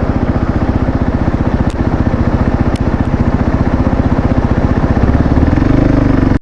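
Motorcycle engine running with a steady, even pulse, growing louder with a stronger note from about five seconds in, then cutting off suddenly.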